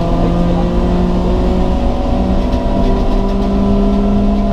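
Inside the cabin of a BMW 318ti rally car, its four-cylinder engine pulls hard under load with its pitch rising slowly, over steady tyre and road rumble.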